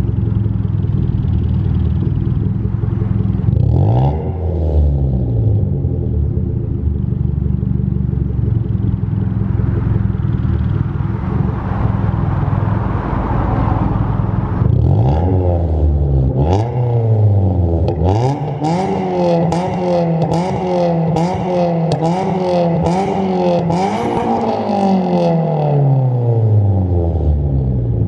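Straight-piped Mazda 3 2.0-litre four-cylinder engine idling loudly, blipped once a few seconds in and again past the middle, then revved in a quick string of blips before the revs slowly fall back to idle near the end.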